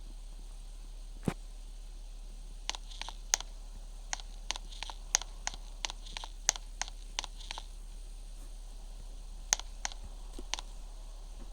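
An irregular run of light, sharp clicks over a steady low hum, with one fuller knock just over a second in, a dense cluster of clicks in the middle and a few more near the end.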